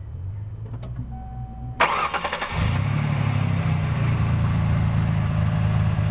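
A 1995 Ford Taurus's 3.0-litre V6 being started: a short crank, the engine catching with a sudden loud burst about two seconds in, then settling into a steady idle.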